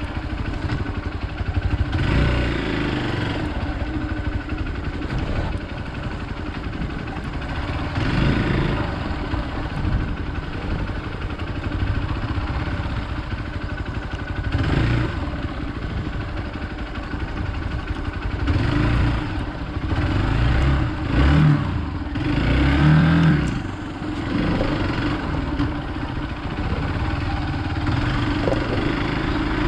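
Hero Xpulse 200 single-cylinder motorcycle engine being ridden off-road, its note rising and falling with the throttle, with the strongest surges about two-thirds of the way through.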